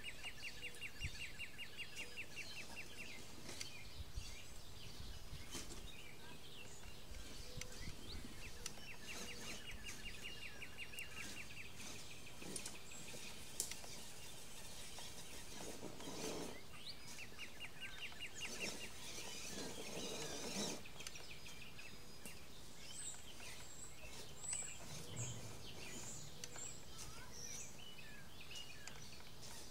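Outdoor background with a bird's rapid trill repeated three times, each lasting about three seconds, and a few high chirps near the end. Two brief rushing noises come about halfway through.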